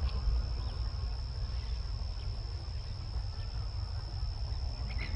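Outdoor ambience: a steady low rumble and a steady high-pitched tone, with a faint short bird call just before the end.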